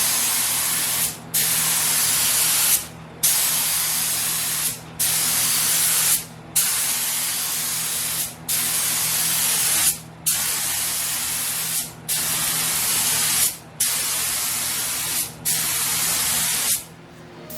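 Paint spray gun hissing in about ten passes, each lasting a second or two, with a short break between passes as the trigger is let go, while a coat of paint goes onto a truck body. A steady low hum runs underneath.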